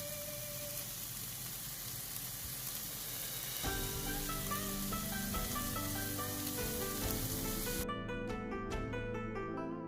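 Food sizzling as it fries in a pan, browning golden. About four seconds in, background music of plucked-string notes comes in over it. Near the end the sizzling cuts off, leaving only the music.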